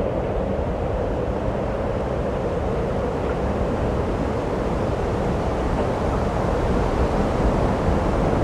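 Strong wind blowing across the microphone: a loud, steady rushing with a low rumble.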